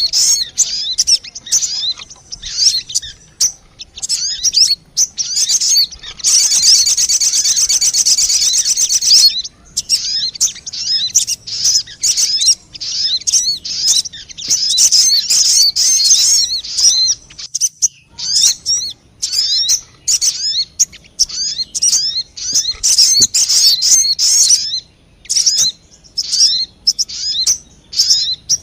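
Lure recording of sogon bird calls: fast, high-pitched chirping in rapid runs broken by short pauses. A denser unbroken trill comes about six to nine seconds in.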